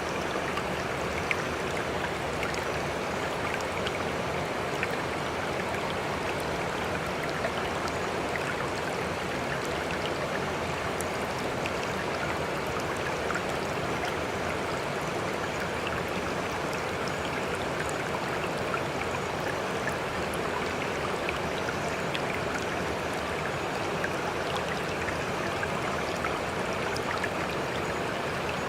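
Sea water making a steady rushing, splashing sound, with small droplet-like ticks scattered through it and no swells rising and falling.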